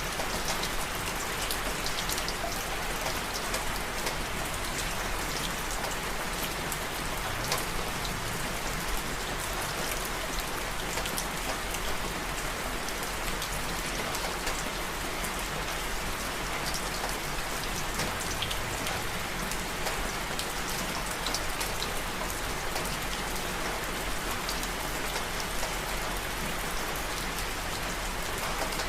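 Steady rain, with many small drops pattering on a surface.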